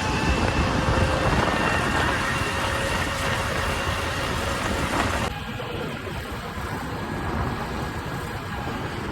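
Preet 987 combine harvester driving on the road, its engine running with steady rumble and road noise. About five seconds in, the sound abruptly turns duller and a little quieter.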